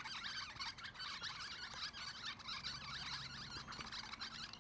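Many parrots calling at once: a dense chatter of short, high, overlapping calls.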